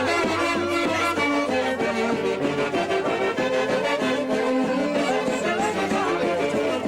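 Live traditional Andean festival band music: a band of wind instruments plays a melody with several sustained, wavering tones at once, steady and unbroken.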